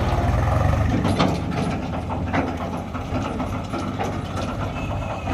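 Heavy diesel machinery engine running with a low steady rumble, with irregular metallic clanks and clicks from the working machine a few times.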